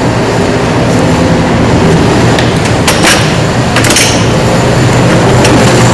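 Steady hum and rush of a space heater running, with a few sharp knocks and clicks of handling about two and a half to four seconds in.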